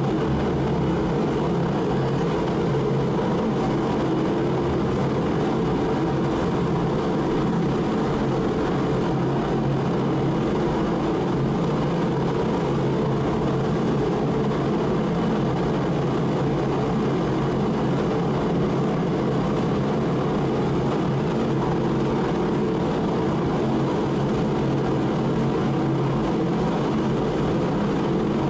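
Mr. Heater 60,000 BTU forced-air propane heater running steadily, its fan and burner making an even, unbroken rushing noise.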